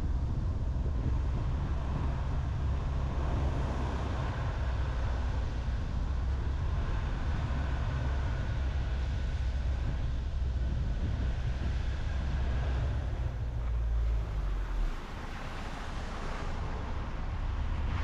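Road noise of a car driving on a highway: a steady low rumble of tyres and wind, which drops away for a couple of seconds about fifteen seconds in and then comes back.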